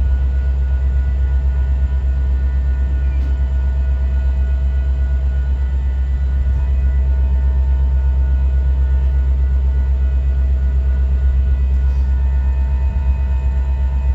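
Train running close by: a steady, loud low rumble with several faint, steady higher tones above it.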